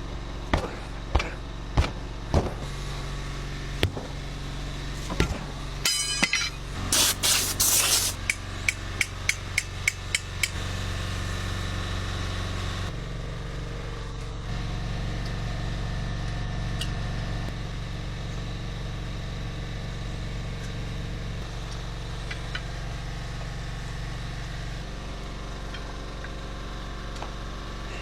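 Hammer blows while a tire is worked onto a wheel rim by hand: separate strikes at first, then a quicker run of about two a second for a couple of seconds. After that a steady low engine hum runs on in the background.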